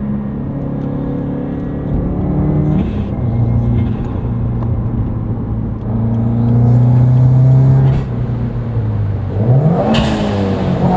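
Subaru WRX's turbocharged FA20 flat-four, fitted with an Invidia R400 exhaust, driving under way: the engine note holds steady and steps between load levels, then climbs in revs near the end, followed by a short burst of noise as the revs drop.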